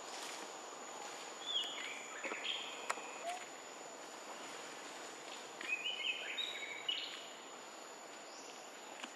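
Outdoor forest ambience: two short runs of chirping bird calls, one about a second and a half in and another around six seconds, over a steady thin high whine and background hiss.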